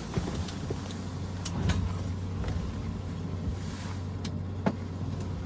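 A steady low engine hum, with a few light clicks and knocks.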